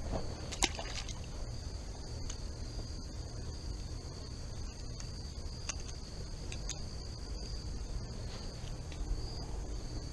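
A steady, high-pitched insect chorus drones on without a break over a low, even background rumble. A single sharp click comes about half a second in.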